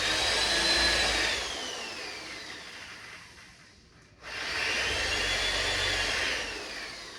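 Power drill boring pilot holes into 1x4 pine framing lumber, run twice. Each time the motor's pitch falls away as it winds down after the trigger is released: the first near the start, the second near the end.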